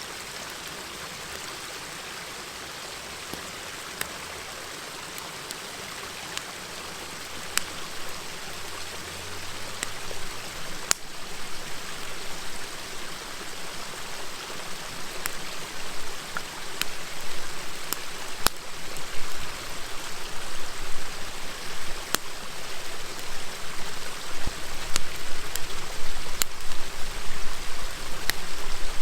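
A river flowing steadily, with a wood campfire crackling and giving sharp pops over it. From about ten seconds in the crackling grows denser and louder.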